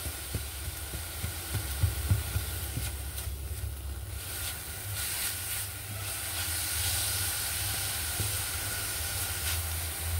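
Grated coconut with a little sugar and salt sizzling in a nonstick frying pan as it is stir-fried with a silicone spatula. There are a few soft spatula knocks in the first two seconds and a steady low hum underneath.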